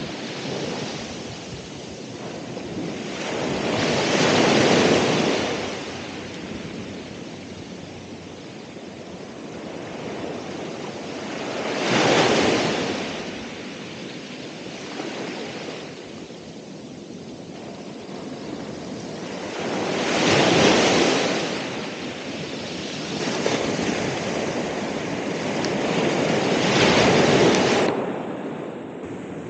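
Ocean waves breaking on the shore: four swells build and break about every eight seconds, with a steady wash of surf between them.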